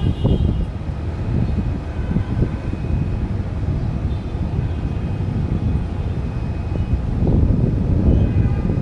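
A loud, steady low rumble, swelling near the end, with faint short canary chirps high above it about four seconds in and again near the end.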